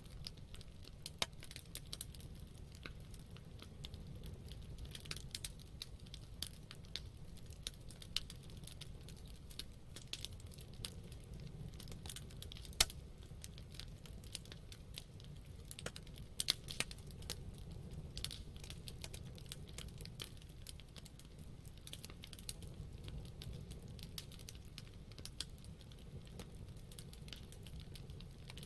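Wood campfire burning, crackling with irregular sharp pops and snaps over a low steady rumble of the flames; the loudest pop comes about 13 seconds in, with another cluster a few seconds later.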